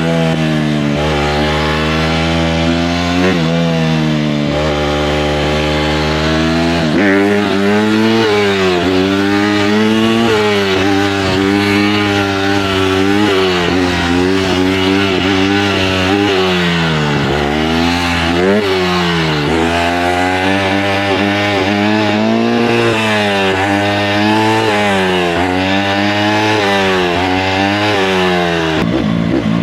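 Honda CRF150R dirt bike's single-cylinder four-stroke engine being ridden hard, revving up and dropping back every second or two as the throttle is worked and gears are shifted.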